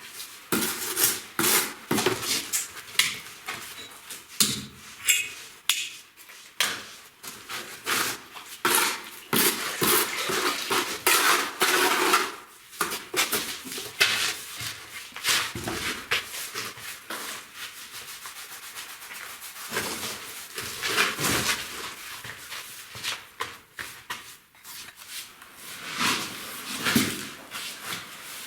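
Metal hand tools scraping and clinking irregularly against brick and mortar during masonry work, in short strokes and knocks with brief pauses.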